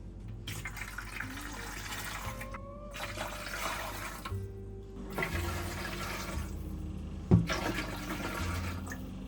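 Running water splashing in four spells of about a second and a half each, stopping briefly between them, with one sharp knock about seven seconds in.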